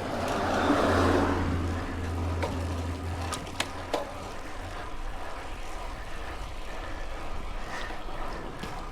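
A motor vehicle passes close to the bicycle: a swell of engine and tyre noise over the first two seconds, its low hum fading out about three seconds in. A couple of sharp clicks follow, then steady road and wind noise.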